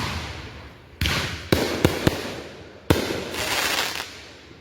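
Consumer fireworks going off: a run of sharp bangs, irregularly spaced about half a second to a second apart, each trailing off. Near the end comes a short stretch of hissing crackle.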